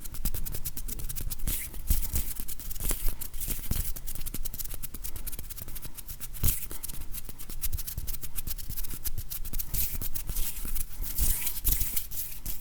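Close-miked ASMR hand sounds: a dense, uneven run of small clicks and rustles from fingers rubbing and tapping.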